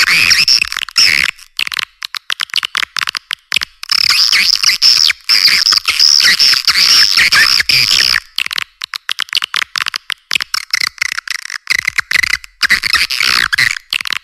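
Swiftlets twittering: rapid, dense high chirps and clicking trills, thickest near the start and again from about four to eight seconds in. This is a swiftlet call recording of the kind played to attract swiftlets.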